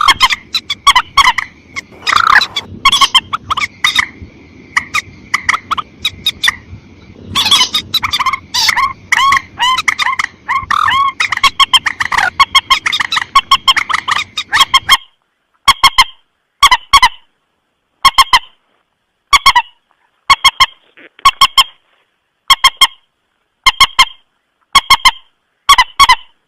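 Common moorhen (mandar batu) calling over and over with short, harsh honking notes, played as a looped bird-lure recording. The first half is a dense run of calls over a background hiss. About halfway through it changes to clipped groups of two or three notes roughly once a second, with dead silence between them.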